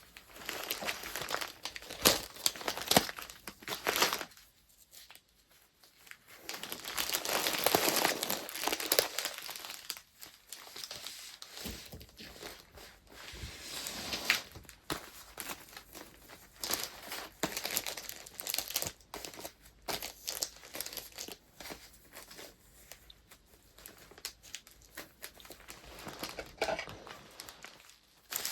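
Paper wrapping being handled: irregular crinkling and rustling with small sharp crackles, denser and louder for a few seconds about a quarter of the way in.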